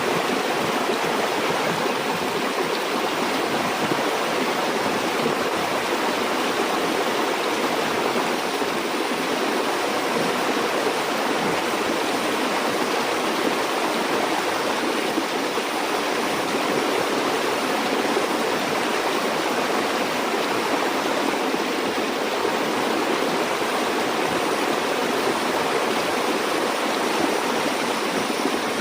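Stream water flowing and babbling over stones, a steady unbroken rush.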